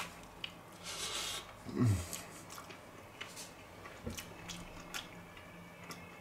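A person biting into a slice of pizza and chewing it, with small wet mouth clicks. A brief low hum comes about two seconds in.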